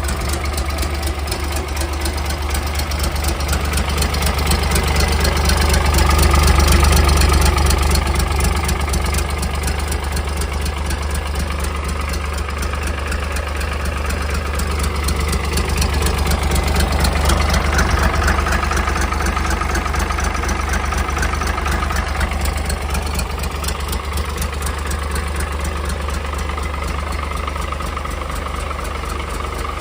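Isuzu UM6SD1TCG straight-six turbo-diesel marine inboard engine running steadily. It grows a little louder for a couple of seconds about six seconds in, and again around seventeen seconds in.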